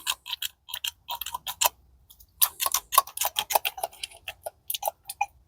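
Quick, irregular light metallic clicks and ticks from small gearbox parts (synchro ring and gears on the shaft) being handled and moved against each other, in clusters, busiest around the middle.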